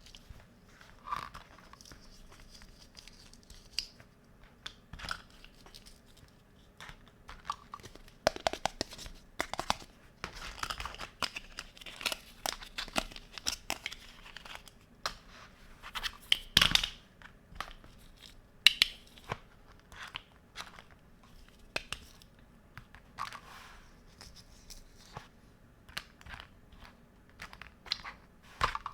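Hands unboxing a toy kitchen playset: packaging torn and crinkled and plastic pieces handled, a string of irregular rustles and small clicks. It is busiest in the middle, with one sharp snap a little past halfway.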